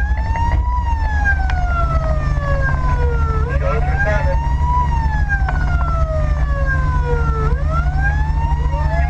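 Fire engine siren wailing: each cycle rises quickly, then falls slowly, repeating about every four seconds. Under it is a steady low rumble of the truck's engine and road noise.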